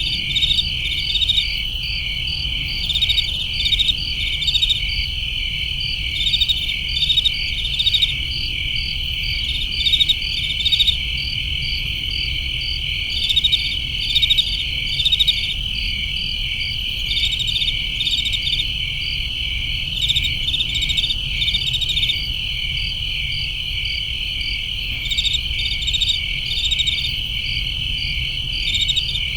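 Crickets chirping at night: a steady high trill with clusters of quick repeated chirps over it, and a low rumble underneath.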